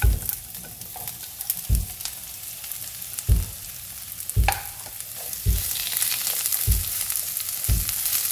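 Chopped onion and garlic frying in hot oil in a pan: a steady sizzle that grows louder about two-thirds of the way through. The mix is being stirred with a spatula, each stroke giving a dull knock about once a second.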